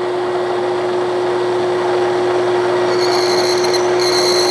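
1967/68 Clausing Colchester 1340 lathe running with a steady whine. Near the end, a high scraping sound comes in pulses as a point is held against the spinning work to scribe a diameter mark.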